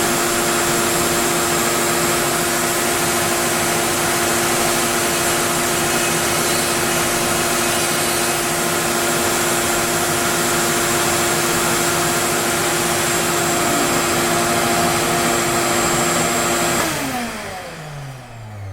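Onefinity CNC router running steadily with a high whine over a loud hiss, then winding down about 17 seconds in, its pitch falling as the spindle stops at the end of the job.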